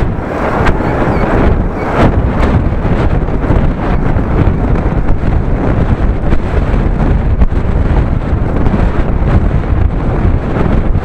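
Heavy wind buffeting the microphone of a bicycle ride camera, a loud and continuous low rumble that gusts irregularly.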